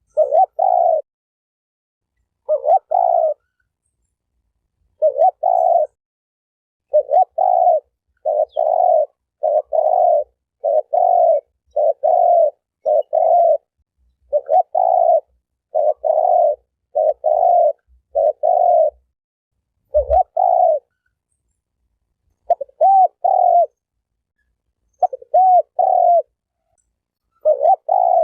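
Spotted dove (terkukur) cooing over and over. Each coo lasts about half a second and they come in close runs, several to a second or two, with brief pauses between runs.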